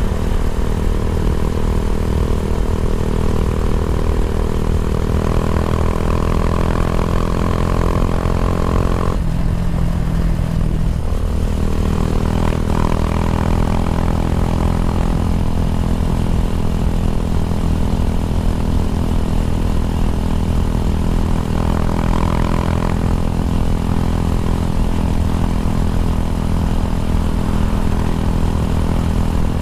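Kawasaki W175's single-cylinder four-stroke engine running steadily through an aftermarket racing exhaust, its note shifting briefly about ten seconds in and again a little past twenty seconds.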